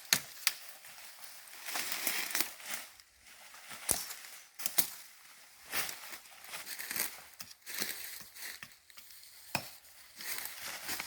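Dry leaves and twigs rustling and crackling underfoot, with scattered sharp snaps and clicks at irregular intervals.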